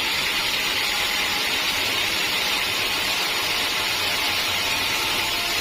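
Sawmill machinery running steadily, an even, unbroken noise strongest in the upper-middle range.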